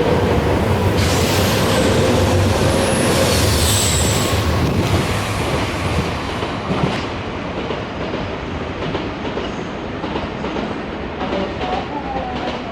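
Nankai electric train running along the platform: a low rumble with a motor whine, wheels clacking over rail joints, and a brief high wheel squeal about three to four seconds in. The train noise then eases off, leaving scattered clicks.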